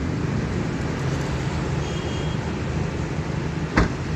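Steady rumble of road traffic, with a single sharp knock near the end.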